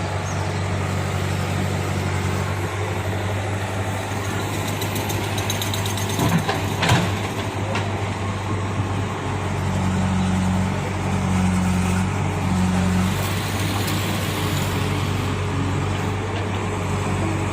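Diesel engines of a tractor and a JCB 3DX backhoe loader running steadily, with a few sharp knocks about six to seven seconds in. A slightly higher engine note comes in and out from about ten to thirteen seconds in.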